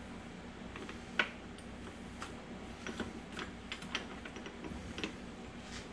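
Light, irregular metallic clicks and taps of manual transmission gear parts being handled and slid into place on the shaft during reassembly, with one sharper click about a second in.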